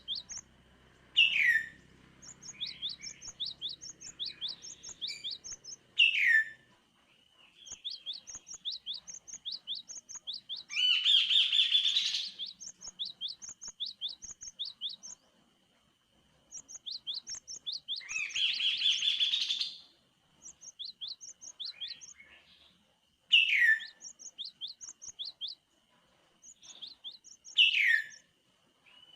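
Kaso-kaso (chestnut-capped babbler) singing: rapid runs of short, high chirps, broken by loud downward-sweeping calls four times and by two long, harsh chattering bursts of about two seconds each. A faint steady high whistle-like tone runs underneath.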